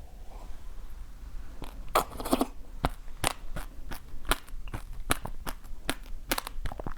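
Close-up crunchy chewing: a loud bite about two seconds in, then crisp crunches about three times a second as the food is chewed.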